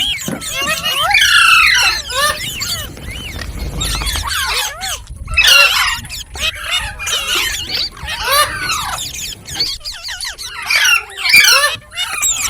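Green parrot chirping and squawking in quick, high-pitched runs of calls with short pauses between them.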